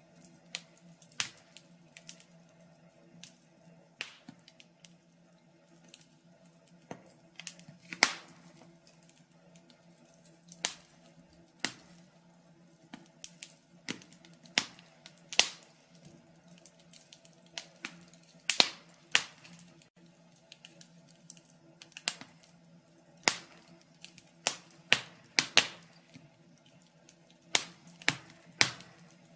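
Wood fire crackling: irregular sharp snaps and pops, a few loud ones among many small ones, over a faint steady low hum.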